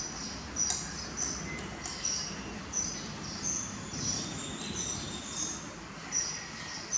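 Small birds chirping: short high notes repeating about twice a second, with an occasional faint click.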